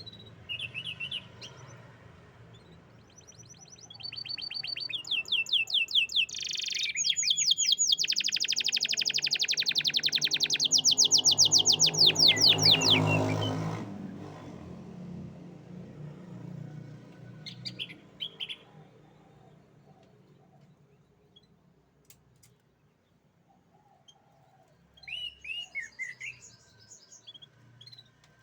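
Canary singing: a long song of fast repeated trills, loudest from about four to fourteen seconds in, then a few short chirps later on.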